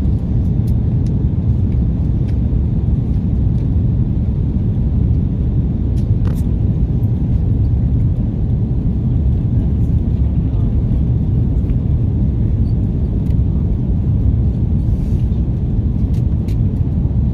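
Steady low roar of an Airbus A330-343's jet engines and airflow heard from inside the passenger cabin, with a few faint ticks.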